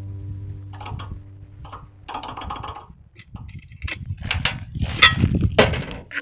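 Background music with held notes fading out, then a string of irregular clinks, scrapes and short noisy knocks from handling hard objects.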